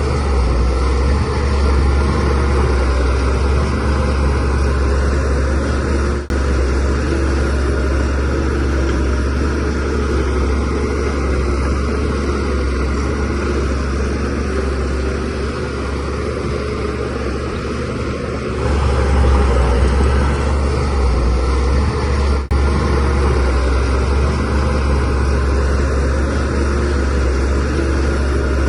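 DH17C3 bulldozer's diesel engine running steadily under load while pushing soil, with track and blade noise. The engine eases off slightly for a few seconds past the middle, then picks up again about two-thirds of the way through. Two very short dips cut into it.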